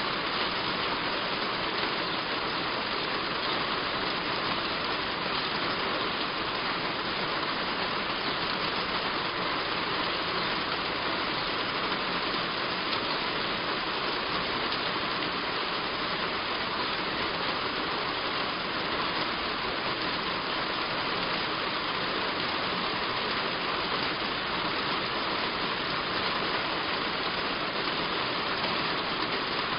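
Heavy rain falling steadily on a roof: an even, unbroken hiss with no let-up.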